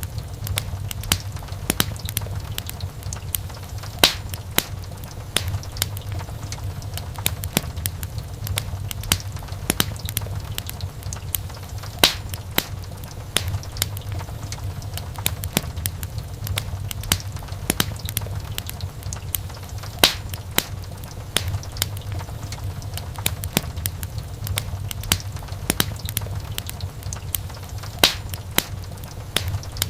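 Wood fire crackling: a steady low rumble of burning with a constant scatter of sharp snaps and pops, a handful of them noticeably louder than the rest.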